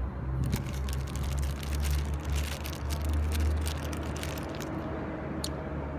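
Wind buffeting the microphone as a steady low rumble. Over it, from about half a second in until shortly before the end, comes a quick run of small clicks and rustles from small plastic pump accessories being handled.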